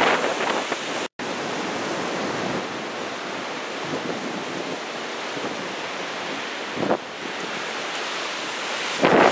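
Heavy typhoon surf breaking, a steady wash of waves, with wind buffeting the microphone in gusts, strongest near the end. The sound cuts out completely for an instant about a second in.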